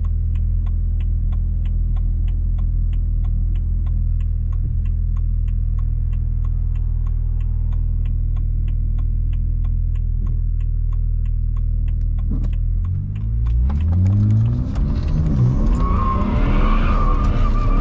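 BMW 135i's twin-turbo N54 straight-six running at a steady low note while the car rolls, with a rapid, even ticking over it. About thirteen seconds in, the engine revs up hard, its pitch climbing in rising sweeps as the car accelerates.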